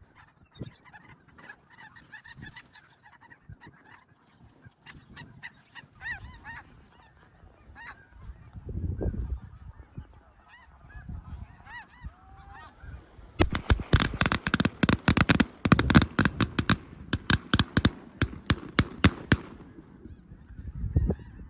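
A large flock of snow geese calling, a constant chorus of high honks. From about halfway through, a rapid run of many loud sharp cracks for about six seconds: a volley of shotgun fire into the flock.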